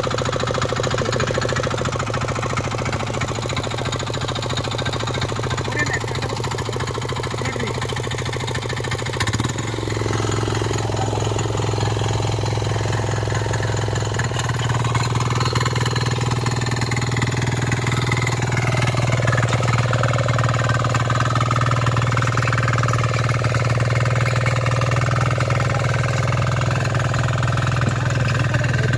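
Small single-cylinder diesel engine of a Kisankraft KK-IC-250D power weeder running steadily. About nine seconds in there is a brief knock and the engine note steps up, and it rises again a few seconds later.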